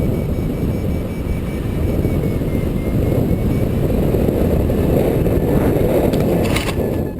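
Wind rushing over the microphone of a hang glider in flight, a dense low rumble that swells in the middle, with a brief crackle about six and a half seconds in.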